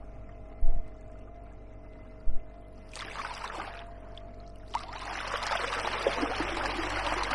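Kayak paddle strokes in the water: a short splash about three seconds in, then a longer rush of water splashing and dripping off the paddle blade from about five seconds in. Two brief low thumps come in the first few seconds.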